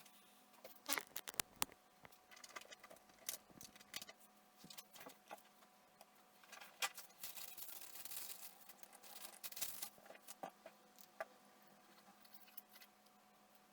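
Irregular small clicks, taps and scraping from handling small parts and tools at a workbench, with a longer scratchy rubbing sound in the middle.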